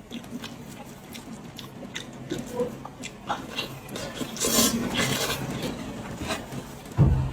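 Close-miked eating sounds: chewing and tearing braised pig's head meat and skin, with wet clicks and crackles and a longer rasping stretch about halfway through. A single heavy low thump near the end is the loudest sound.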